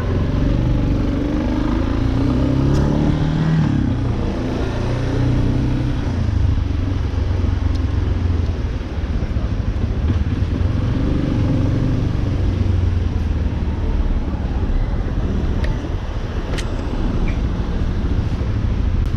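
Yamaha Lander 250's single-cylinder four-stroke engine pulling away, rising in pitch about three seconds in, then running steadily through city traffic.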